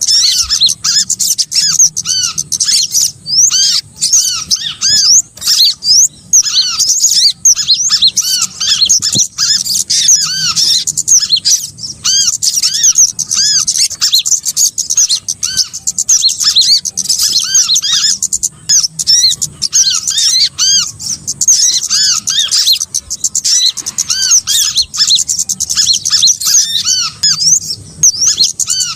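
Dense, unbroken chorus of small songbirds: many quick, arched chirps and twitters repeated rapidly, high-pitched and loud. This is a lure-call recording used to attract small birds to a trap.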